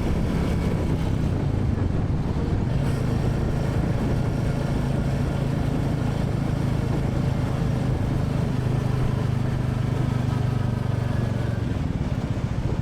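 Royal Enfield Classic 350's single-cylinder engine and exhaust running steadily while the bike is ridden. The engine note drops in pitch about a second and a half in, then holds, rising a little near the end.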